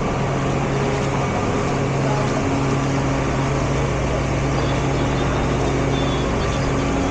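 Vehicle engine running at a steady speed: a constant hum over an even hiss of noise.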